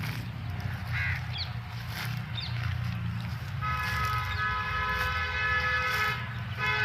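A horn sounds one long steady blast of about two and a half seconds, then a short second blast near the end, over a steady low rumble. There are a few short bird chirps in the first couple of seconds.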